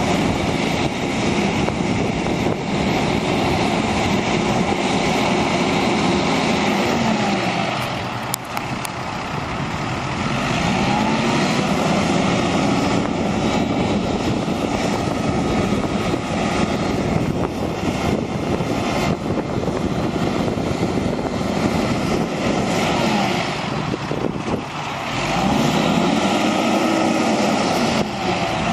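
1997 International 2674 crane truck's diesel engine running steadily, with a tone in its sound that rises and falls in pitch several times.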